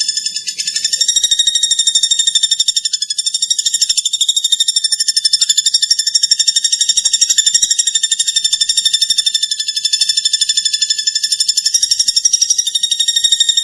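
Common flameback woodpecker (platuk bawang) calling in a fast, continuous, high-pitched rattling trill, with a steady thin tone lower beneath it.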